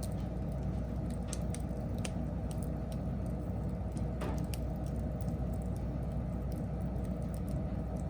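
Wood fire burning: a steady low rumble with irregular sharp crackles and pops from the burning wood.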